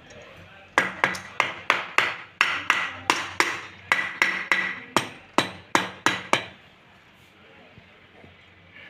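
A hammer tapping on metal: a steady run of about eighteen sharp, ringing blows, about three a second, that stops a little over six seconds in.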